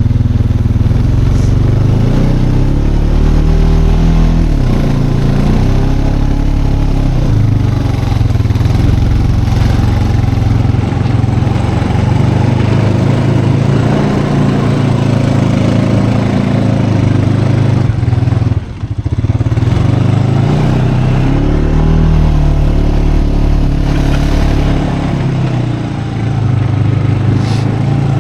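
Four-wheeler (ATV) engine running while riding, its pitch rising and falling with the throttle. It dips briefly about two-thirds of the way through.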